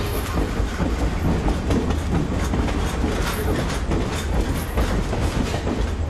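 Passenger train moving along a station platform. Its wheels clatter rhythmically over the rail joints above a steady low rumble.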